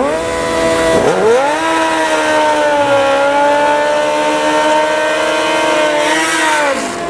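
Motorcycle engine revved hard. The revs dip at the start, climb sharply about a second in, hold at a high steady pitch for about five seconds, then fall away near the end.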